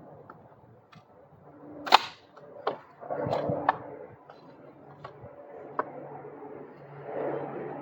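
Pry bar pulling screwed-down deck lumber apart: a series of sharp cracks and knocks, the loudest about two seconds in, with stretches of creaking wood between.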